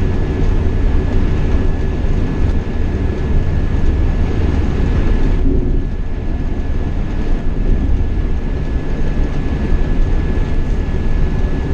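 Scania K420 double-decker coach under way, heard from the cab: a steady low rumble of engine and road noise, with a thin steady whine over it. The higher part of the noise drops briefly about five and a half seconds in.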